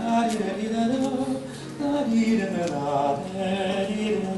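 A man singing a slow, flowing melody from a ballet without speaking, with held notes that glide between pitches.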